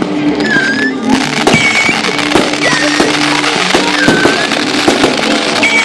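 Fireworks popping and crackling, a dense run of bangs and crackle about a second in, over music with a held low note.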